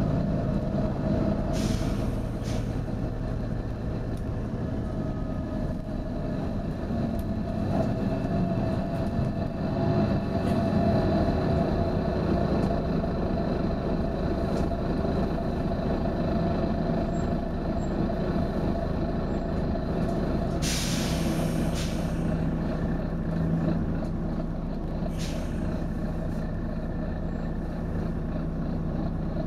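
Volvo B9TL double-decker bus running steadily, with sharp hisses of compressed air from its air system: two short ones near the start, a longer, louder one about two-thirds of the way through, and another short one soon after.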